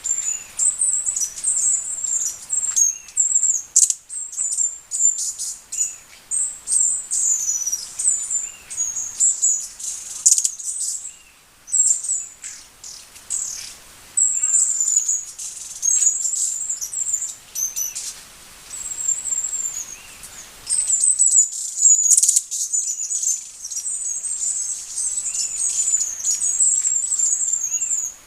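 Hummingbird giving a very high-pitched twittering chatter: rapid runs of short chirps, repeated again and again with brief pauses.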